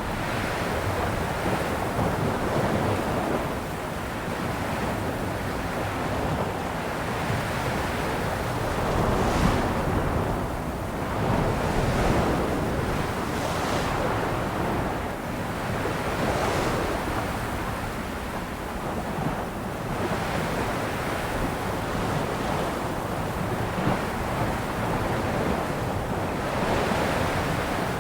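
Sea waves washing onto a shore, a continuous surf noise that swells and eases every few seconds.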